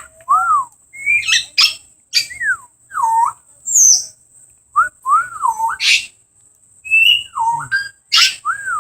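Whistling exchange between a person and a parrot: a series of short whistled notes that swoop up and down in pitch, some answered in copy, with brief higher bird chirps between them.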